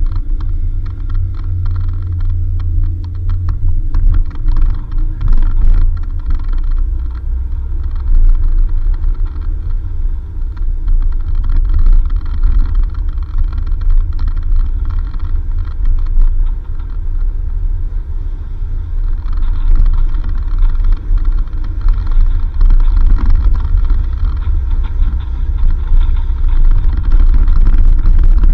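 Four-wheel-drive vehicle driving on a dirt road: a steady low rumble of engine and road noise, with scattered knocks and rattles from the rough surface a few seconds in.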